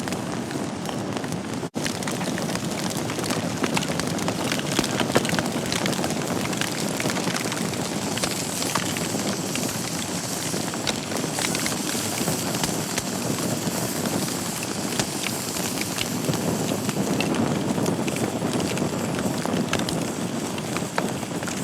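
Wood fire burning in a fireplace: a steady hiss with many small crackles and pops throughout. The sound cuts out for an instant about two seconds in.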